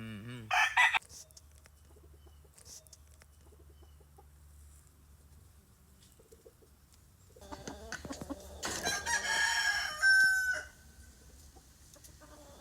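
Rooster crowing: one long crow of about three seconds near the end, ending sharply, after a short loud burst about half a second in.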